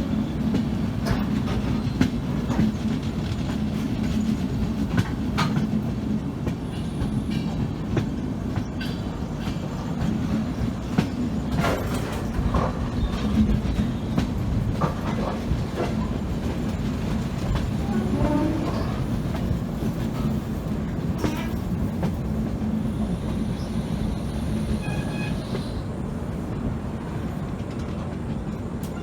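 Indian passenger train running on the track: a steady low rumble with scattered knocks of the wheels over the rails.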